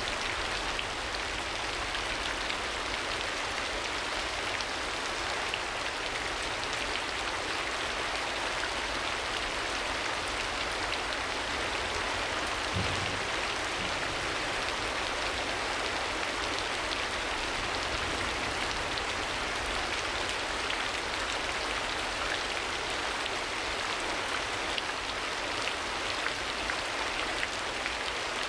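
Steady rain falling, an even patter of raindrops, with a faint low thump about halfway through.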